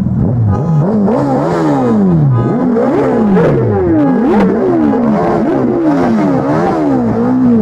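Several sport motorcycle engines revving, throttles blipped up and down about once a second, the revs overlapping and rising and falling again and again.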